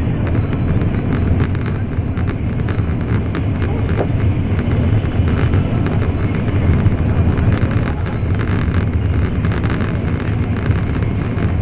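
Cabin noise of an N700 series Shinkansen running at speed: a loud, steady low rumble with a fine rattling hiss above it.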